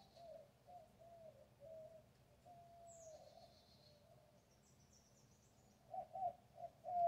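Birds calling in a garden: a low, wavering series of short notes, with three louder ones near the end, and high falling chirps twice plus a brief high twitter.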